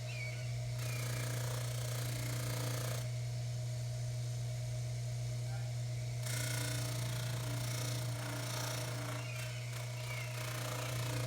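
Baldor 353T dental lathe running steadily with a low hum while a pipe stem is buffed on its wheel. A hiss from the wheel fades for a few seconds in the middle and comes back louder about six seconds in.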